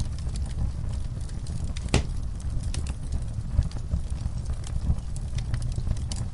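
Wood fire burning in a fireplace, logs crackling and popping irregularly over a steady low rumble of flames, with one louder pop about two seconds in.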